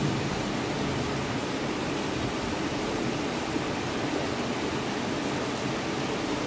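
Heavy rain pouring steadily, a dense, even rush of rainfall with no distinct drops standing out.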